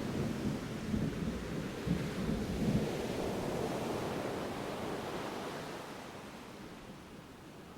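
Distant thunder rumbling low over the steady wash of ocean surf, strongest in the first three seconds and then dying away.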